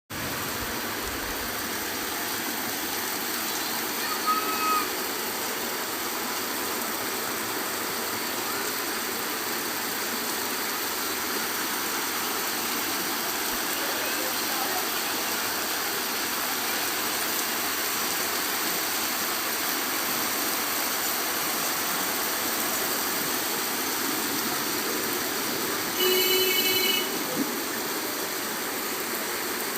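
Steady rain falling, an even hiss. A short high-pitched sound comes about four seconds in, and a louder pitched call lasting about a second comes near the end.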